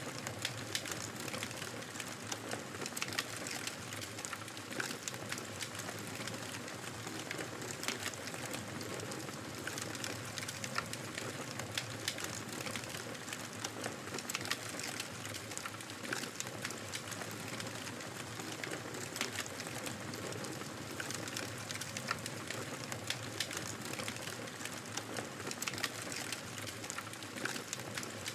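Wood fire crackling in a fireplace: a steady hiss of burning with frequent sharp pops and snaps at irregular intervals.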